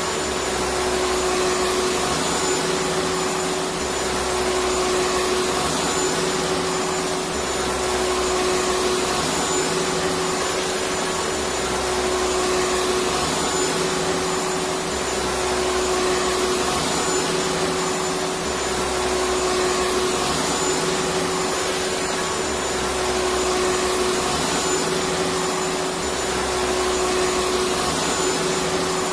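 Electric vacuum cleaner running steadily with an unchanging whine, under a low hum that swells and drops about every four seconds.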